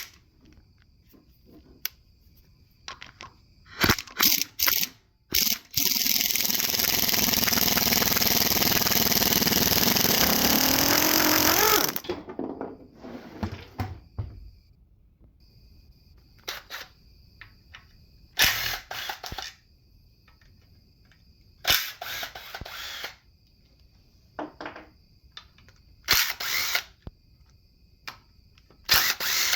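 Power tool run in several short bursts and one steady run of about six seconds that ends with a brief rising whine, removing fasteners while an LS 5.3 engine is being taken apart.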